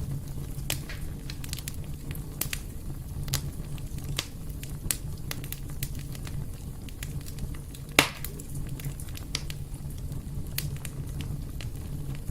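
Wood fire burning in a fireplace, with a steady low rumble of flames and irregular crackles and pops; one sharp, louder pop about eight seconds in.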